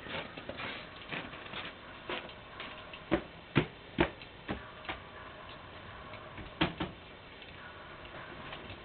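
Irregular sharp clicks and knocks, a dozen or so, the loudest about three and a half seconds in and again near seven seconds, over faint room tone.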